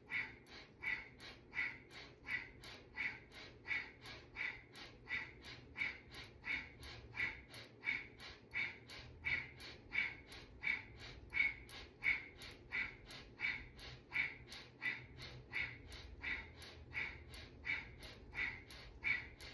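Quick, rhythmic breathing through the nose in Kundalini Cat-Cow: a steady run of short rushes of breath, about three every two seconds, each breath timed to a flex of the spine.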